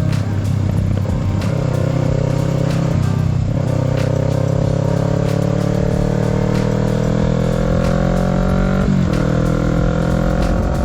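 Kawasaki Z650's parallel-twin engine accelerating under way. The revs climb steadily, dip at upshifts about three and nine seconds in, then climb again.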